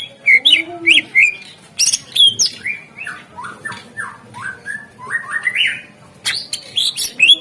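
Cucak ijo (green leafbird) singing a fast, varied song of sharp sliding whistles, chirps and clicks, with notes tumbling downward and back up. This is the bird's full, energetic 'gacor' song of the kind played to rouse caged birds into singing.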